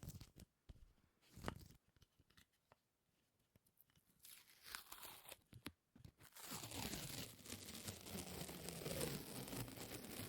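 Close-miked sticky ASMR sounds: scattered soft clicks at first, then from about six seconds in a continuous tacky crackling and tearing as something sticky is pulled apart.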